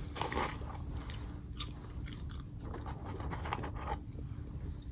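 A person chewing and biting food close to the microphone, with irregular crunchy mouth clicks.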